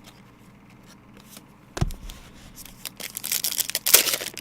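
Foil trading-card pack being torn open and crinkling, after a single soft thump about two seconds in.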